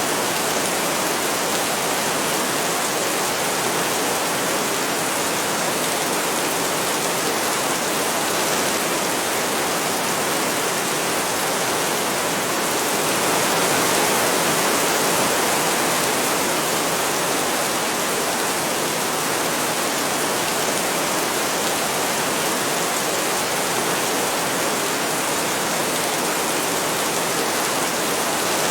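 Steady heavy rain, a dense even hiss of downpour that swells slightly about halfway through.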